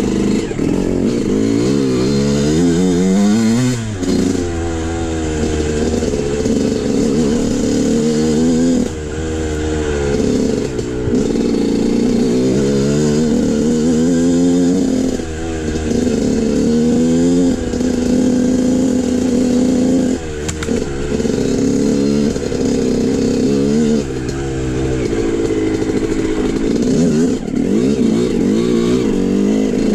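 Dirt bike engine running hard, its pitch climbing again and again as it revs up through the gears, with short drops in loudness every few seconds between the climbs.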